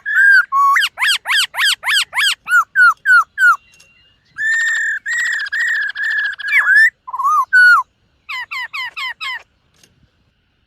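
Black-throated laughingthrush singing loudly: runs of quick, sweeping whistled notes and longer warbled phrases, broken by short pauses, falling quiet about a second before the end.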